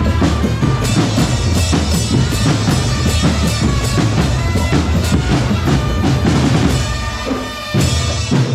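Drum corps playing a fast, loud percussion piece: bass drums and snare drums pounding out a dense rhythm. The low drums drop out briefly about seven seconds in, then come back.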